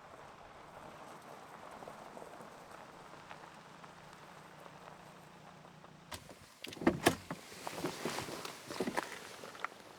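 A car's engine running with a steady low hum that stops about six seconds in, followed by a click, a couple of loud knocks of a car door opening and shutting, and scattered knocks and rustling of someone getting out and moving about.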